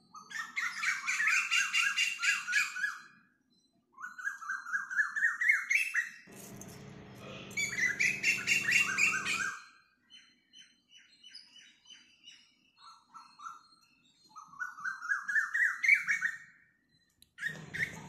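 A songbird singing: about four phrases of fast, rapidly repeated chirps, several rising in pitch over a second or two, with softer chirps between them. A rushing noise runs for a few seconds in the middle.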